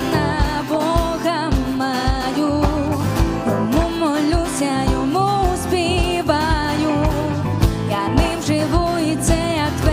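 A live worship band playing a song, with a steady drum beat, guitar and a sung melody line.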